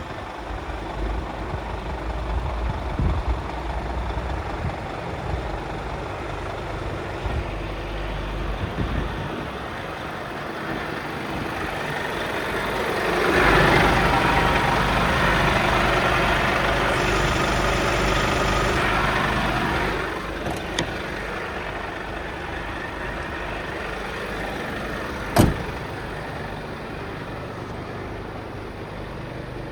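Scania P250 truck's five-cylinder diesel engine idling, growing louder for several seconds from about 13 s in before settling back. A single sharp knock about 25 seconds in.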